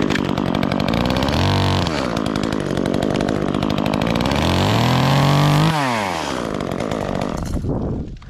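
Chainsaw running at high revs while cutting a branch stub, its pitch climbing twice before the throttle is let off about six seconds in; the engine then dies down near the end.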